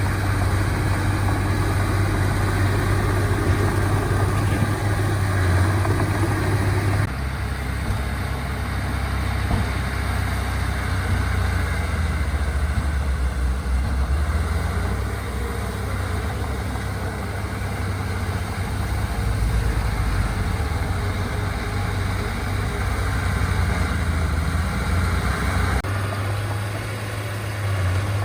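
Diesel engines of earthmoving machinery running steadily, a deep low hum with noisy clatter above it. The mix changes abruptly about seven seconds in and again near the end.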